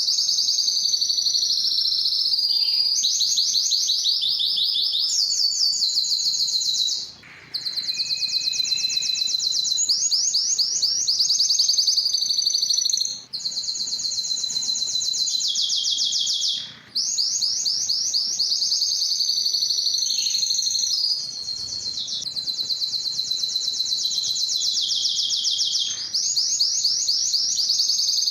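Domestic canary singing a continuous song of fast, high trills. Each phrase is a rapid run of repeated notes lasting one to three seconds before switching to another, with a few brief breaks.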